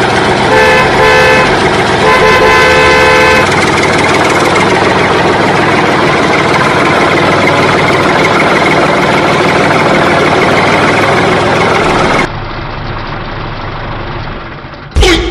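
Steady, loud engine noise of a running vehicle, with a horn honking twice near the start, the second honk longer. Near the end the noise drops abruptly, followed by a short loud bang.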